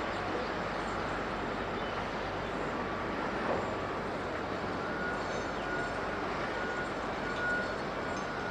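Steady rush of jet aircraft engine noise, even in level throughout. From about halfway in, faint short high beeps repeat at an even pace, like a ground vehicle's reversing alarm.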